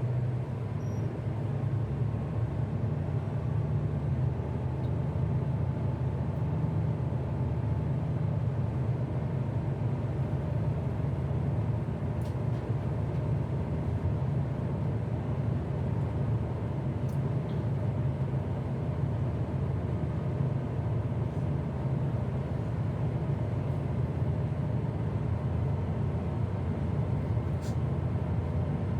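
Tugboat's diesel engines running steadily under load while towing a barge astern: a deep, even drone.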